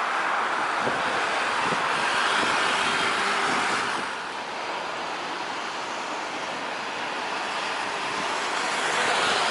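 Jet airliner engine noise, a steady rushing sound that dips about four seconds in and builds again near the end.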